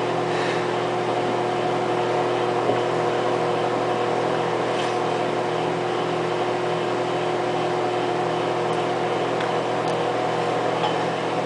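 Microwave oven running: a steady hum with several fixed tones.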